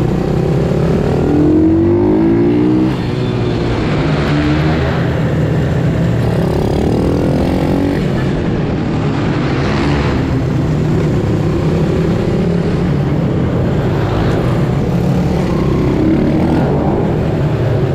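Pit bike engines revving up and down repeatedly, with rising and falling engine pitches overlapping one another.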